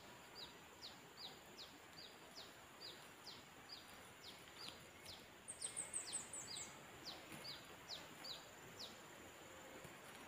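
Faint birdsong: a bird repeats a short, high, falling chirp about twice a second, and about five and a half seconds in another bird gives a quick run of even higher notes that step down in pitch.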